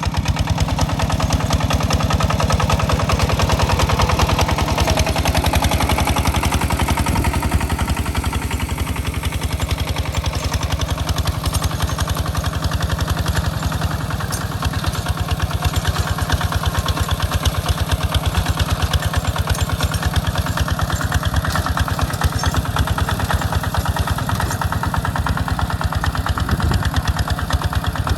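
Single-cylinder diesel engine of a walking hand tractor running steadily with a rapid, even chugging, working a plow in a rice field.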